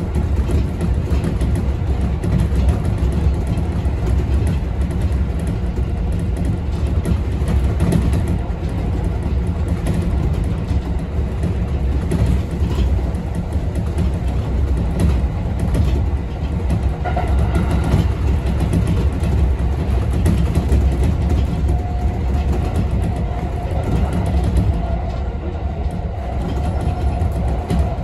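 Kintetsu electric local train running, heard from the driver's cab: a steady low rumble of wheels on rail with scattered clicks over the track. A faint whine comes in during the last third.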